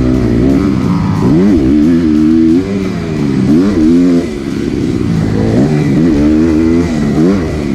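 Kawasaki KX250F's single-cylinder four-stroke engine being ridden hard, the revs climbing and dropping back about once a second as the throttle is worked and gears change.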